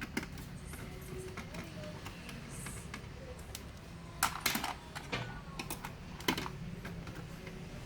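Light clicks and taps of laptop parts being handled and fitted during reassembly, with a cluster of sharper clicks about four seconds in and another sharp click about six seconds in, over a steady low hum.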